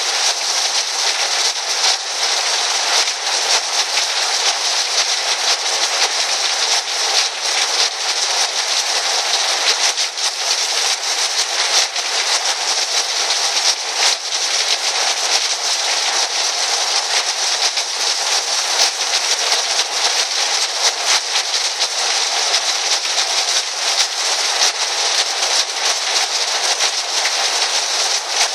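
Heavy rain on a tin roof: a steady, dense patter of countless drop impacts on the metal.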